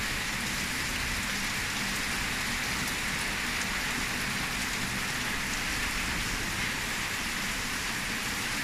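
Heavy tropical downpour: steady, dense rain falling on surfaces.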